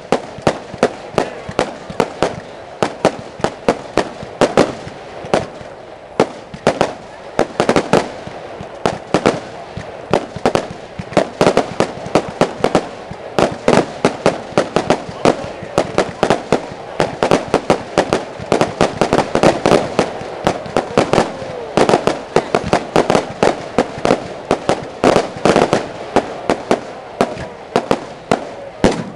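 Aerial fireworks bursting in rapid succession: a dense barrage of bangs and crackles, several a second, with no let-up.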